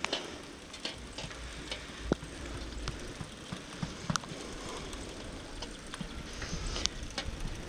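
Bicycle being ridden: steady tyre and road noise with scattered sharp clicks and ticks from the bike, over a low rumble of wind on the camera's microphone.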